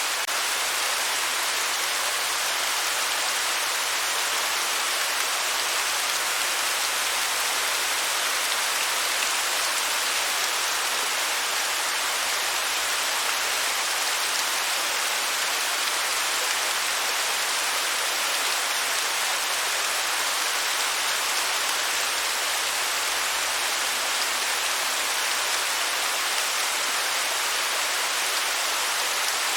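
Waterfall: water falling and splashing, a steady, even hiss with little low rumble and no change throughout.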